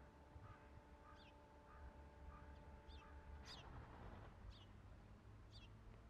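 Faint bird calls: short, high, falling chirps repeated about once a second, with a brief soft rustle about halfway through.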